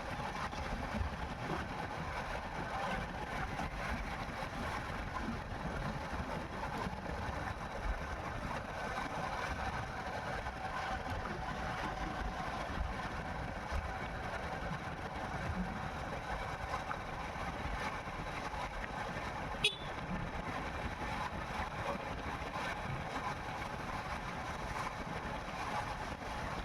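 Motorcycle running steadily on the move, its engine tone held even under wind and tyre noise. A single sharp click about twenty seconds in.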